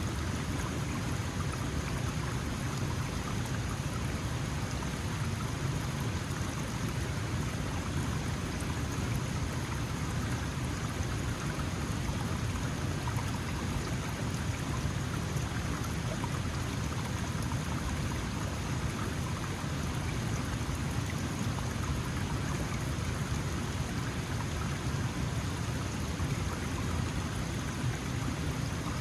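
Small mountain stream flowing over stones: a steady rushing and babbling of water with no breaks.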